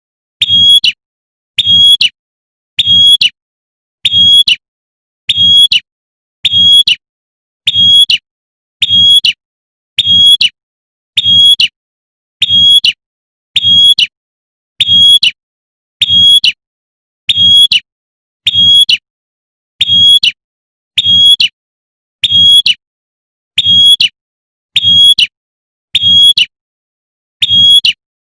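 Female prenjak (prinia) giving its sharp 'tembakan' call, the same short high chirp repeated about once a second as a looped lure recording. A low hum sounds under each call.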